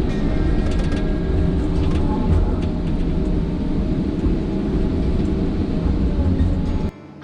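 Steady engine and road rumble of a moving vehicle, heard from inside. It cuts off suddenly near the end and gives way to quieter acoustic guitar music.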